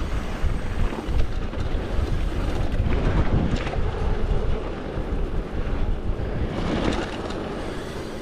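Mountain bike running fast down a wet dirt trail: steady wind on the microphone over tyre rumble, with the bike rattling over bumps.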